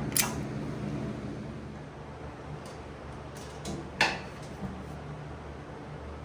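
Sharp knocks and clinks of hand tools and metal parts while dismantling a go-kart's engine mounting, the loudest about four seconds in, over a steady low hum.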